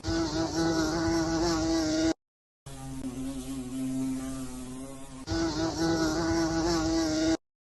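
A flying insect buzzing in a steady drone with a slightly wavering pitch. It cuts off dead about two seconds in, resumes half a second later, and cuts off again just before the end.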